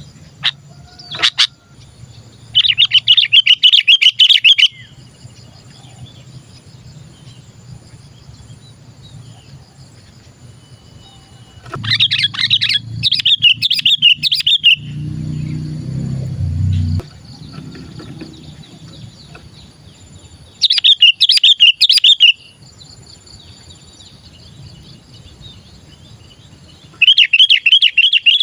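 Sooty-headed bulbul calling in bouts of rapid, chattering notes, each bout about two seconds long, four times, with fainter bird twittering between.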